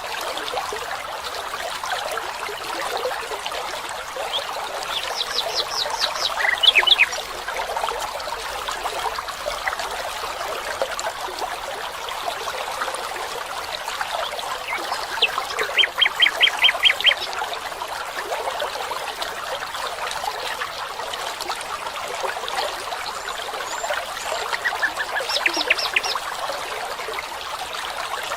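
Steady rush of flowing stream water, with a bird calling in three quick runs of sharp repeated notes: about a fifth of the way in, just past halfway, and near the end.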